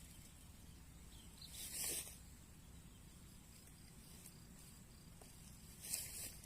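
Two brief rustling swishes, about two seconds in and again near the end, over a faint low background.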